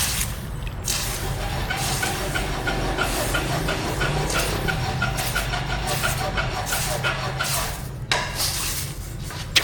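A machine's motor running steadily with a regular ticking about three to four times a second, and short bursts of hiss near the end.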